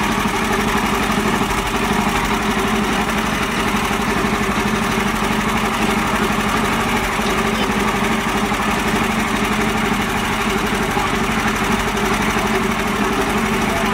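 Mini tractor engine running steadily at an even speed, a rapid regular pulsing.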